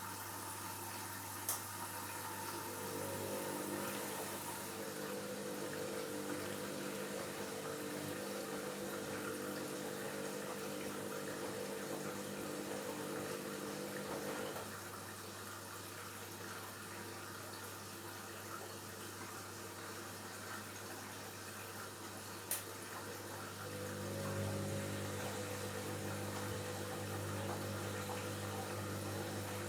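Washing machine mid-cycle, with water moving and a pump humming. The pump hum runs for about ten seconds, stops, and starts again near the end, with two sharp clicks.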